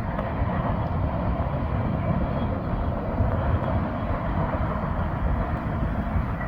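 Double-stack intermodal freight train rolling past, a steady rumble of wheels on the rails.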